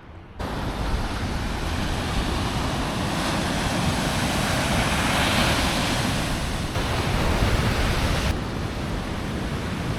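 Sea surf washing steadily, with wind buffeting the microphone; it starts suddenly about half a second in.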